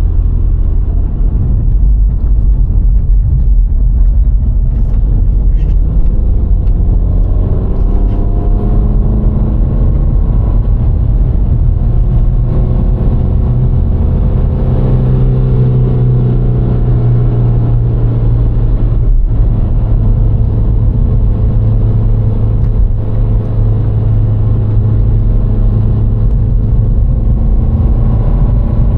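VW Golf IV 1.6 four-cylinder petrol car driving, with a steady low rumble of road and tyre noise. The engine note climbs and eases, breaks off briefly about two-thirds of the way through, then holds steady.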